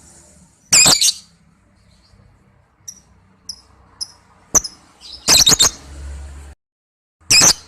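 Lovebird calling in loud, high-pitched bursts of rapid chirps: one burst about a second in, a few short soft chirps in the middle, then a longer burst past five seconds and another near the end.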